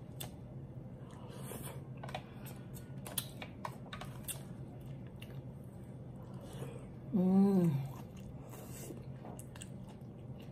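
Close-up chewing and lip smacking with scattered sharp clicks while eating. About seven seconds in, a short hummed "mmm" of enjoyment, the loudest sound.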